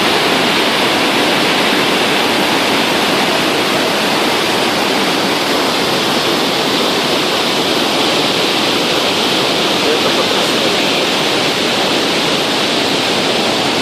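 Steady, loud rush of the Iguazu Falls, a huge waterfall, heard close up.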